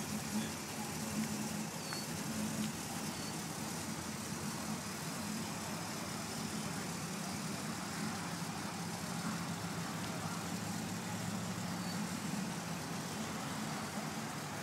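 Chevrolet Caprice's engine running steadily at low speed as the car rolls and turns in a parking lot.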